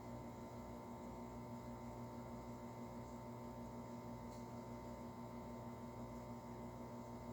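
Steady, faint electrical hum over low room noise, unchanging throughout.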